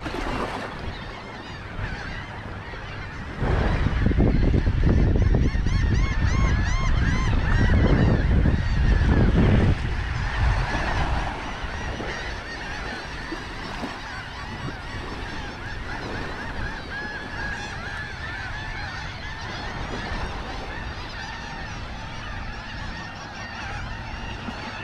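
A flock of geese honking, many short repeated calls overlapping. A loud low rumble rises about three seconds in and drops away about ten seconds in.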